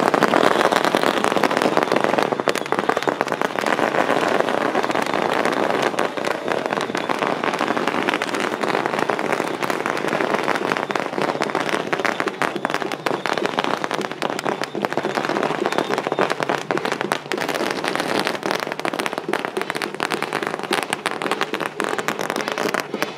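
A long string of firecrackers going off in a dense, continuous crackle, a little louder in the first couple of seconds.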